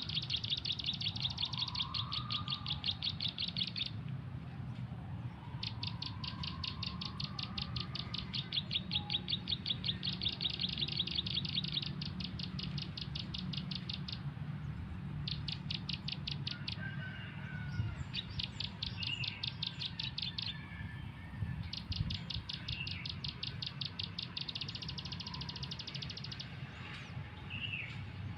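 Bird-call lure playing from a phone's speaker: a fast, even trill of high chirps in runs of several seconds that stop and restart, with a few other short bird calls and a steady low rumble underneath.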